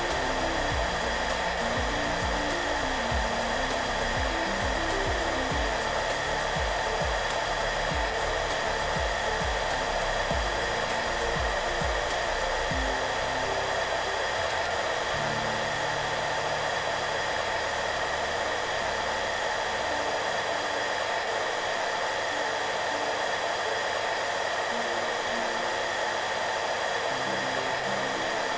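Hair dryer running steadily, a constant rush of air with a few steady tones from its motor and fan. Soft background music plays underneath, with a low pulsing beat for about the first half.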